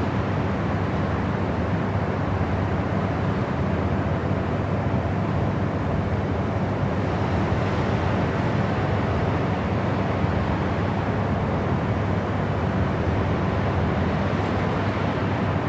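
Steady white noise for sleep: an even, unchanging rush, deeper than a hiss, with most of its weight in the low end.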